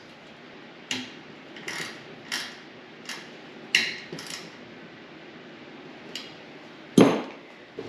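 Metal clicks and clinks of a hand tool tightening a small bolt on an engine crankcase, coming at uneven intervals, with a louder metallic clank about seven seconds in.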